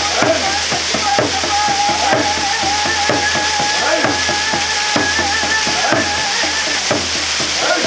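Waterfall water pouring and spattering close to the microphone, a loud steady hiss. Over it, a single held, slightly wavering tone runs for about six seconds and then stops.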